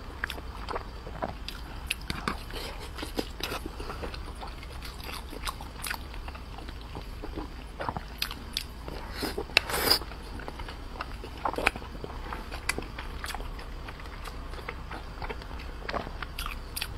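Close-miked chewing and mouth sounds of someone eating soft braised pork and pork-and-egg dumpling filling, with many small clicks and a louder burst of them about ten seconds in.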